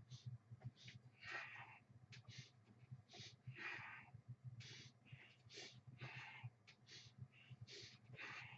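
A person breathing hard through repeated exercise reps: short, faint, hissy exhalations about once a second, over a low steady hum.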